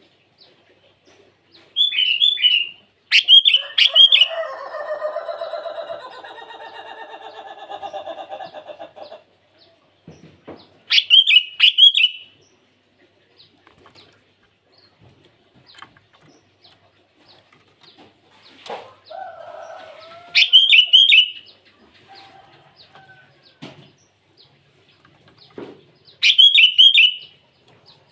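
Sooty-headed bulbul giving short, bright chattering phrases, five in all, spaced several seconds apart: calling as if to challenge a rival. A lower, rasping, pulsing sound runs for about five seconds a few seconds in.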